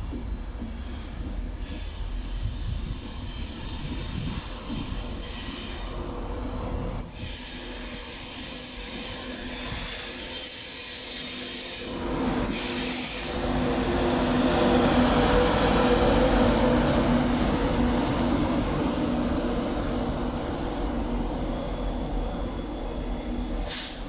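A train passing on the line: a steady hum with a high hiss builds to its loudest a little past halfway, then eases off.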